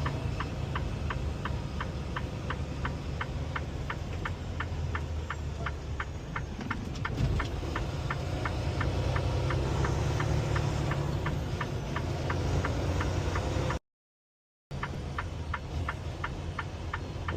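Semi-truck's turn-signal clicker ticking steadily, about three clicks a second, over the low hum of the diesel engine in the cab. The ticking stops about twelve seconds in, and the sound drops out for about a second near the end.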